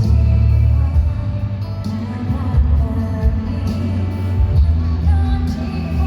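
Thai pop song with a voice singing over a strong bass line.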